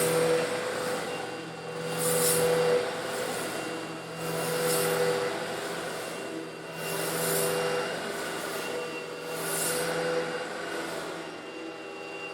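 Eureka vacuum cleaner running with a steady motor whine while it sucks up small coarse stone granules. The hiss of the intake swells and fades about every two and a half seconds.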